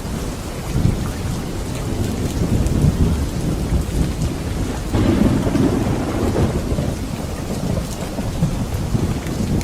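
Steady heavy rain with low rumbling thunder, which swells about five seconds in.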